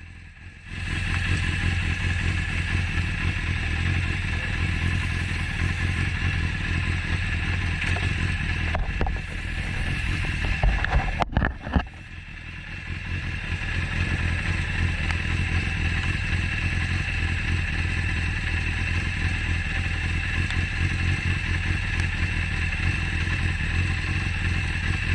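Yamaha Fazer 600 inline-four motorcycle engine starting about a second in and running steadily with first gear engaged, driving the rear wheel round on the centre stand so the chain can be lubed. Around the middle the engine note dips briefly, with a few clattering knocks, then rises back to a steady run.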